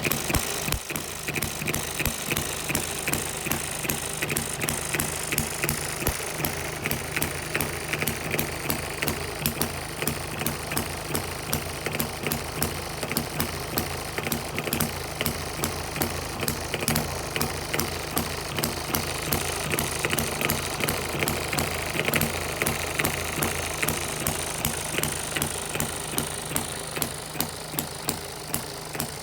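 A small model hit-and-miss stationary engine running steadily, a quick, even train of sharp firing strokes and clatter with no break.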